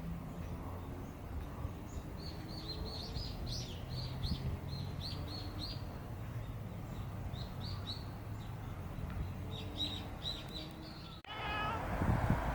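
Small bird chirping in quick series of short, high, falling chirps over a low steady hum; the sound breaks off abruptly near the end.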